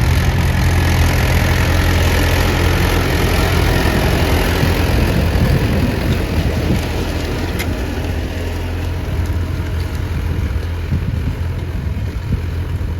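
Mahindra tractor's diesel engine running steadily, a little quieter after about six seconds.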